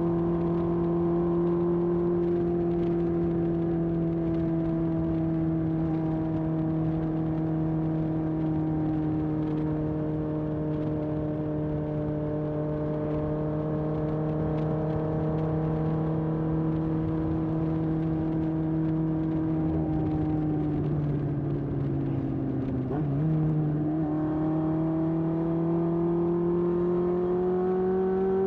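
1981 Honda CB750F's air-cooled inline-four running through a period Yoshimura exhaust under way: a steady note that slowly sinks in pitch for about twenty seconds, dips briefly, then rises steadily as the bike accelerates near the end.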